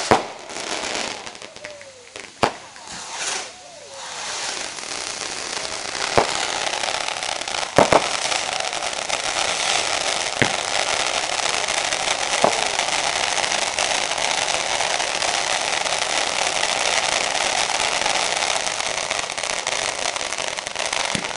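Firework fountains hissing and crackling steadily, building up over the first few seconds, with a handful of sharp bangs scattered through the first half.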